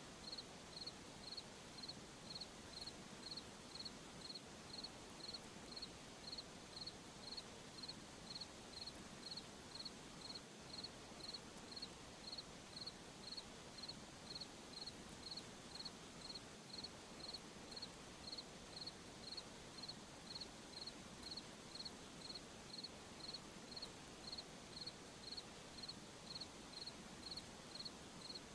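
A cricket chirping steadily, one short high chirp about one and a half times a second, over a faint hiss of night ambience.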